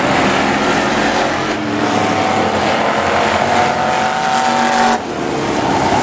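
Pickup trucks racing on an oval speedway track, several engines running hard at high revs, with some tire squeal. The sound changes abruptly about five seconds in.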